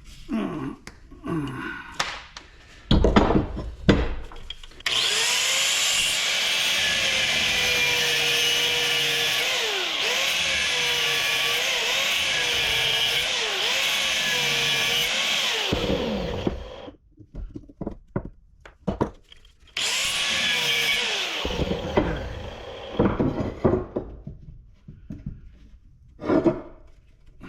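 Handheld power tool working on scrap metal parts: a long run of about eleven seconds with a pitch that dips as it bites under load, then a second short run, with metal parts clanking and knocking before and after.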